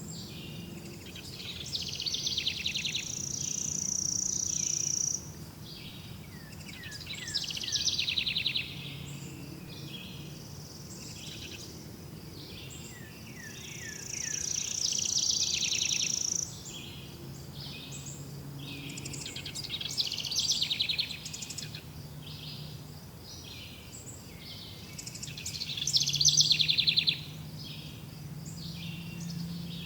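Wild birds singing in a natural soundscape: bursts of song a few seconds long, with trills and chirps, recur about every six seconds. A faint steady low drone runs underneath.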